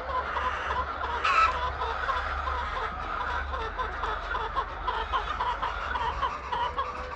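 A flock of chickens clucking, many short calls overlapping, with one louder squawk about a second in, over a steady low hum.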